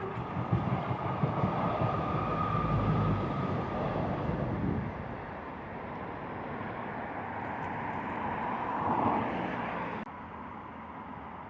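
A passing train running by, loudest in the first few seconds, with a faint steady whine over the rumble; the sound swells again before dropping off suddenly about ten seconds in.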